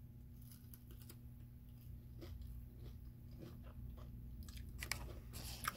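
Faint crunching and chewing as a fried potato tot stick is bitten and eaten, with a denser run of crisp crunches near the end.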